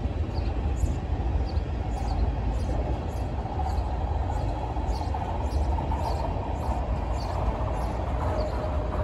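Freight train of tank cars rolling past: a steady low rumble of steel wheels on rail, with faint light ticks a couple of times a second.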